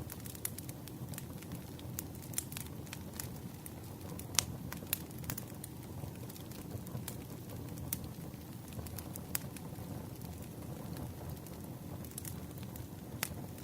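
Wood campfire burning: a steady low rumble of flames with irregular sharp crackles and pops, one louder pop about four and a half seconds in.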